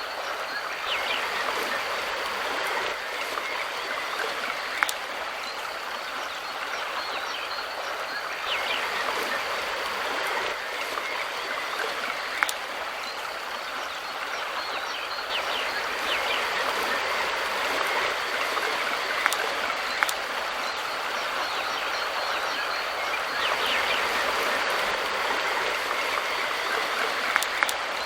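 Mountain river flowing steadily, a continuous rush of water, with a few sharp clicks and faint bird chirps over it.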